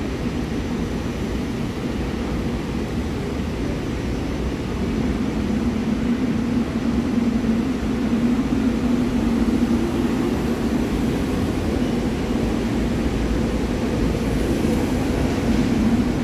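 SEPTA electric commuter train running, a steady low rumble with a hum that grows stronger about five seconds in.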